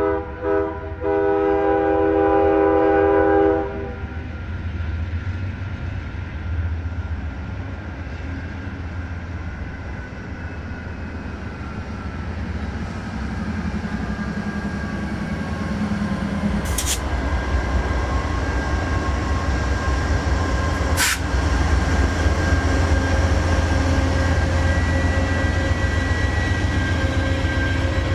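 Diesel locomotive's multi-chime air horn sounding two short blasts and a long one, followed by the low rumble of the train that grows louder as it approaches. Two sharp clicks come later on.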